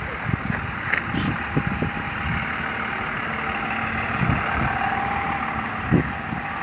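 Strong gusting wind buffeting the microphone in irregular low thumps, over a steady rush of wind through trees.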